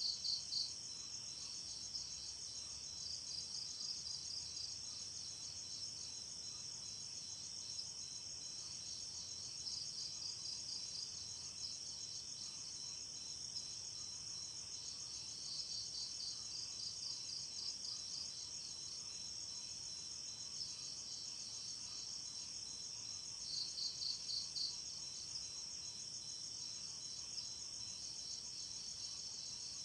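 Night crickets chirping in a steady high-pitched chorus. Louder bursts of rapid pulsed chirping break in now and then, several times over the half minute.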